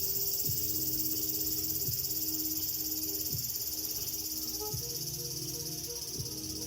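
A steady, high-pitched chorus of summer insects, with soft background music underneath whose low notes change about every second and a half.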